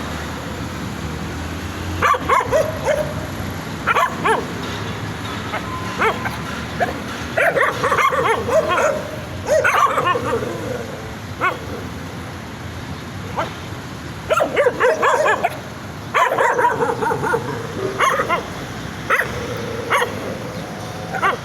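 Puppies barking excitedly in flurries of several quick barks, with short lulls between the flurries.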